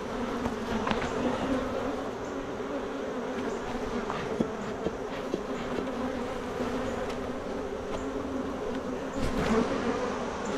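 Honeybees from an opened hive buzzing in a dense, steady hum, with a few faint clicks.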